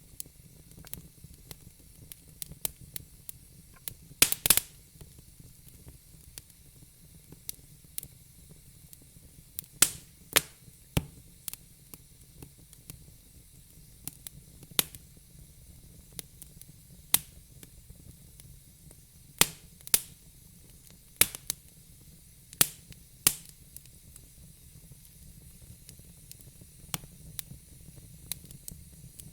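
Wood fire crackling in a fire pit: irregular sharp pops and snaps over a faint hiss, with a loud double pop about four seconds in.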